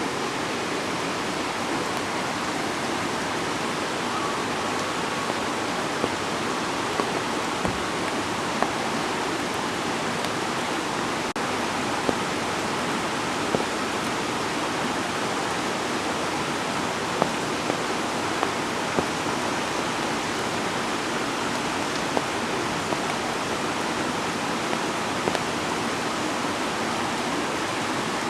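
Waterfall: a steady rush of falling water, with a few brief sharp clicks scattered over it.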